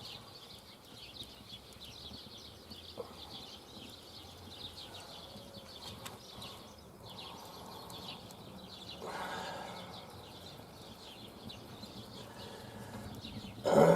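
Dense, continuous high-pitched chirping from small animals, many quick chirps overlapping.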